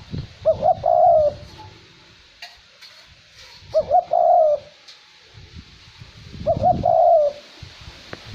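Male cu moi (red collared dove) cooing, three phrases about three seconds apart, each a couple of short rising notes running into a longer one. A light wind rumbles on the microphone beneath.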